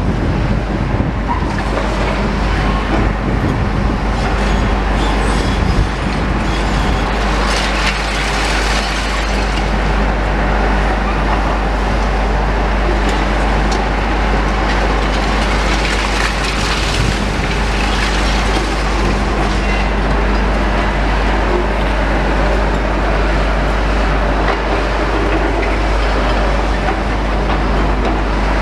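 Heavy demolition machinery at work: diesel engines running steadily with a constant hum and deep rumble. Twice, about eight and sixteen seconds in, a louder wash of harsher noise rises over it.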